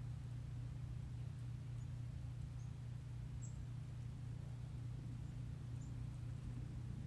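Quiet open-field ambience: a steady low rumble with a few faint, very short high chirps from small birds.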